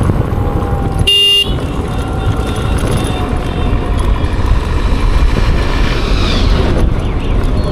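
Wind buffeting and road rumble from riding an electric scooter at speed, with one short horn beep about a second in.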